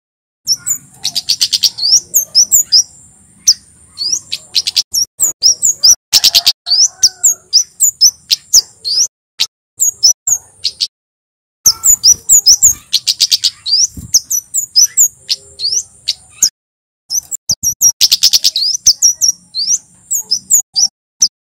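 Male flowerpecker (kemade) singing: loud, rapid runs of sharp, high 'cit' notes in bursts, over a thin steady high trill in stretches, with short breaks about eleven and sixteen seconds in.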